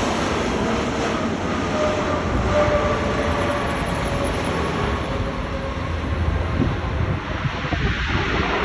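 Jet airliner's engines on landing: a steady, dense rush of engine noise with faint whining tones sliding slowly downward in the first few seconds.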